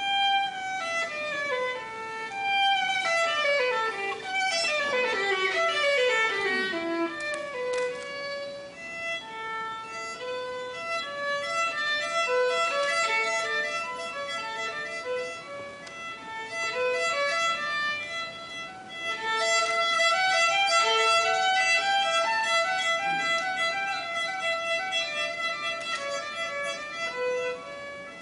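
Solo violin music: fast descending runs of notes in the first several seconds, then a slower melody of held notes.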